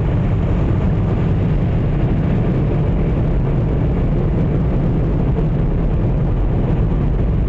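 An automatic car wash's big air-dryer blowers blowing over the car, heard from inside the cabin as a loud, steady rush of air like a wind tunnel.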